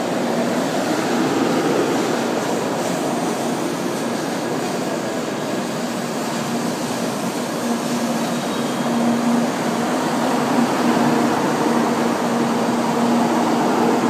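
N700 series Shinkansen cars rolling slowly past at low speed into the platform: a steady running noise of the train with a steady hum through it.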